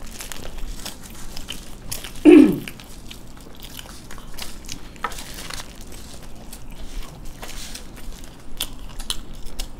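Close-miked chewing and biting of bhel puri, a crunchy puffed-rice street-food mix, with many small crackling crunches. About two seconds in, one brief loud sound falls steeply in pitch.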